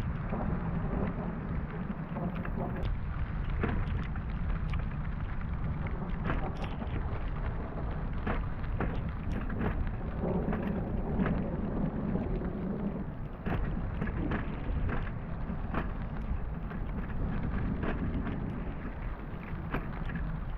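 Heavy rain falling, with frequent irregular sharp ticks of drops striking close by over a steady low rumble.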